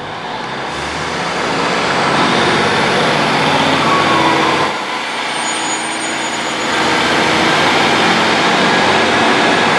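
Class 153 diesel railcar pulling away under power, its underfloor diesel engine working hard. The sound builds over the first couple of seconds, drops briefly about halfway, then rises again and holds.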